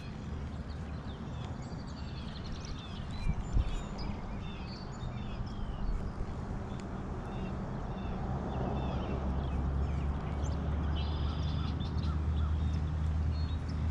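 Birds chirping and calling in short repeated notes, over a low engine drone that grows louder from about eight seconds in.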